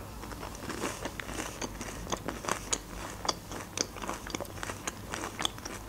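Close-miked chewing of a crispy fried breaded bite: a steady run of small crunching clicks, several a second.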